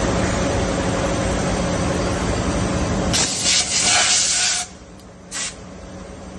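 CNC machine running with a steady mechanical hum, then loud hissing bursts of spray from about three seconds in. The running noise drops off suddenly near the middle, followed by one more short hiss.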